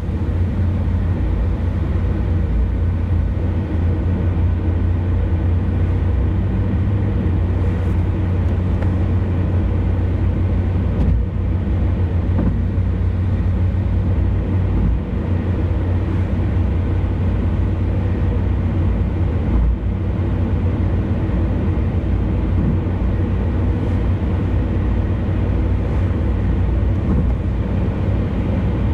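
Car driving at speed on an expressway: a steady low rumble of road and engine noise.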